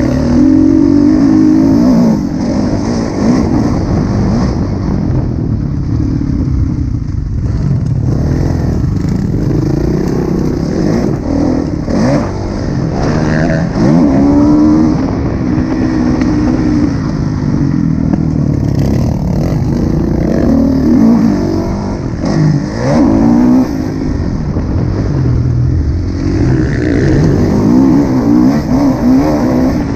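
2016 Kawasaki KX450F's single-cylinder four-stroke engine revving hard on a motocross track, its pitch rising and falling again and again as the throttle opens and closes.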